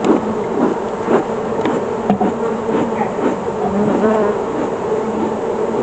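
Dense buzzing of many honeybees around an opened hive, a steady hum with single bees wavering in pitch as they fly close past.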